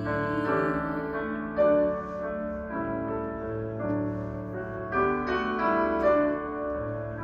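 Piano playing the accompaniment of a classical art song, a gentle passage of struck notes and chords.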